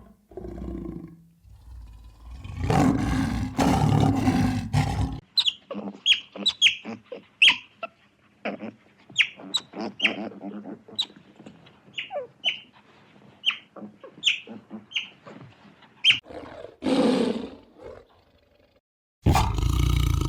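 Animal vocalizations: a few seconds of low, rough growling, then a long run of short, high, squeaky calls, one or two a second, each dropping in pitch, and one longer call near the end.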